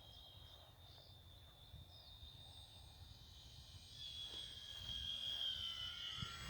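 Electric motor and propeller of a radio-controlled Hawker Hurricane model plane whining in flight, growing louder about four seconds in and dropping slightly in pitch as it passes. Wind rumble on the microphone underneath.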